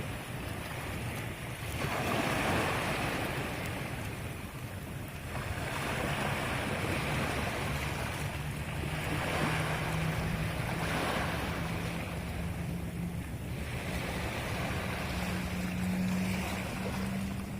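Sea waves washing onto the shore, the rush swelling and fading every few seconds. A low steady hum joins about halfway through and rises slightly in pitch near the end.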